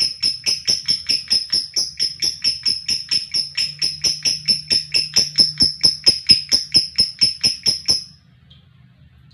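Lovebird giving a long 'ngekek' chatter: a fast, even run of shrill repeated notes, about five a second. It stops suddenly about eight seconds in.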